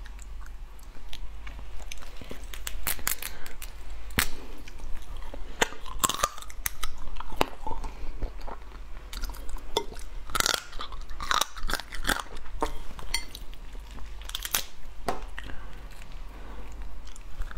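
Close-miked chewing and biting of crab meat and shell, with irregular crisp crunches and wet mouth sounds.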